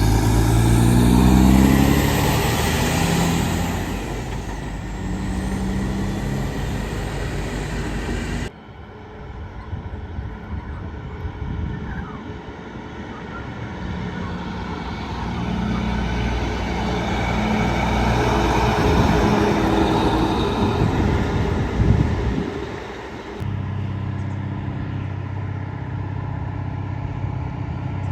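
Heavy trucks passing on a highway: engine drone with a rising pitch at the start, and tyre and road noise that swells and fades as vehicles go by.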